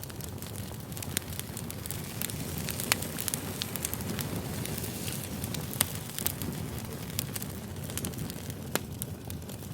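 Campfire crackling: a steady low rush of burning wood with sharp, irregular pops and snaps scattered throughout.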